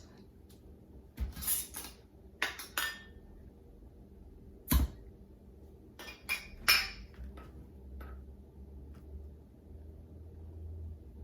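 A series of sharp clinks and knocks of cutlery and dishes, the loudest about five seconds in, as the pickles are got out to taste.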